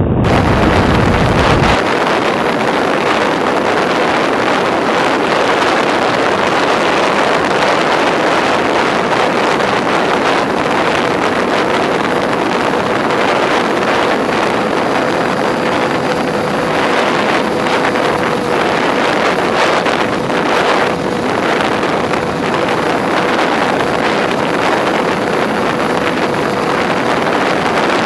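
Twinstar II RC plane in flight heard from its onboard camera: rushing wind over the microphone with the steady drone of its twin electric motors and propellers, one held tone that barely changes.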